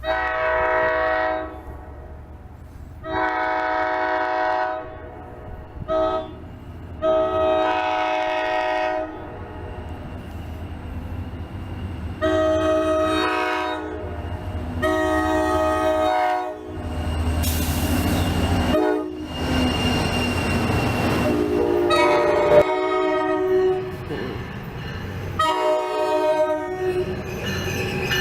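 NJ Transit commuter train's multi-note locomotive horn sounding the long-long-short-long grade-crossing signal, then more long blasts as the train passes with a loud rushing rumble of wheels on rail.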